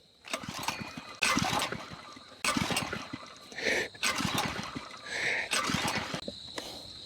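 Lifan 2.5 hp four-stroke engine being pull-started: a series of about six recoil-starter pulls, each a short whirr of the engine turning over, without it catching.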